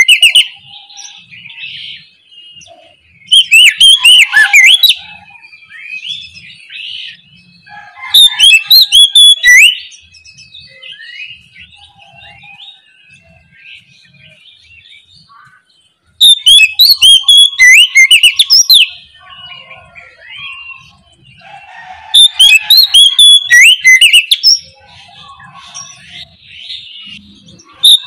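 Oriental magpie-robin (kacer) in full-volume 'ngeplong' song: four loud bursts of rapid, varied high whistles and trills, each a second or three long. Softer twittering notes come in between.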